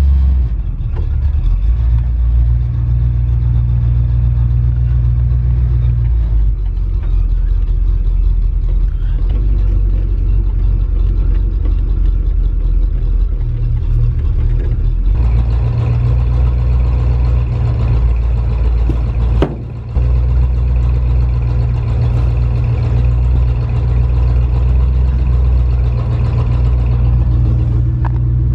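A car or truck engine running steadily with a deep low drone, as when driving, with a brief drop in level about twenty seconds in.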